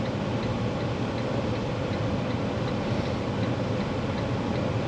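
Steady diesel engine and road noise inside a semi-truck's day cab while driving, with a light, even ticking about three times a second.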